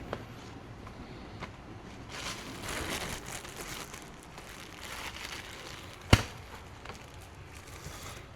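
Kitchen work sounds: bursts of crinkling and rustling handling noise, and one sharp knock about six seconds in, the loudest sound.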